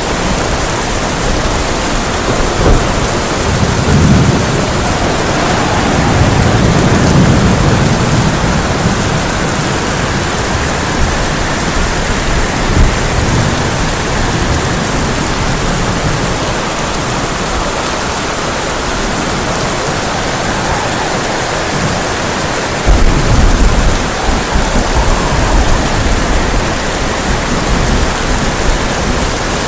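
Heavy rain drumming steadily on a tin roof in a thunderstorm. Thunder rumbles low a few seconds in, and a sudden loud clap of thunder breaks about two-thirds of the way through and rolls on.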